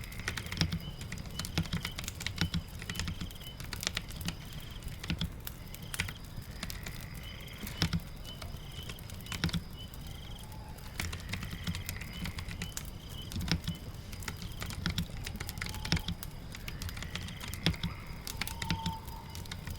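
Typing on a keyboard, with irregular key clicks over a steady patter of rain and the crackle of a fire. Faint short high chirps repeat in the background.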